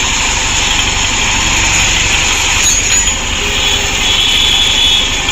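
TVS motorcycle's single-cylinder four-stroke engine idling steadily, freshly rebuilt after a timing chain replacement, running smoothly with none of the 'khar khar' rattle of a worn timing chain.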